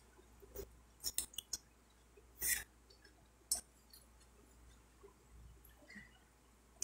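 Quiet eating sounds: scattered, irregular soft clicks and smacks of chewing a hand-fed mouthful of watercress and rice, along with fingers mixing rice and manioc flour on a plate.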